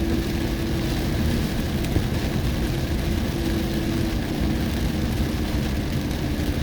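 Steady noise of a car driving through a heavy storm: a continuous engine and road hum under a dense, even hiss.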